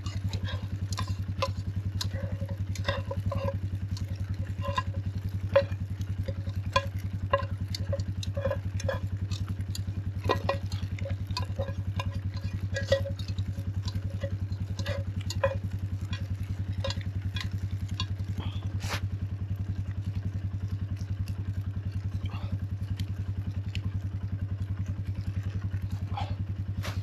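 Metal utensil clinking and scraping against a pot as pasta is stirred over a campfire. The clinks come thickly for the first two-thirds, then thin out. Under them runs a steady low hum.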